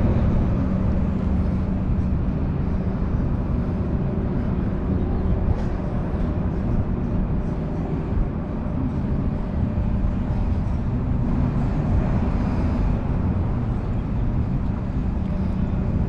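A motor running steadily: a constant hum over a low rumble.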